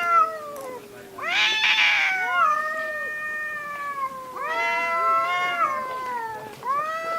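Two domestic cats caterwauling at each other: long, drawn-out, wavering yowls that overlap at different pitches, with a harsher screech about a second and a half in, the threat calls of a cat fight standoff.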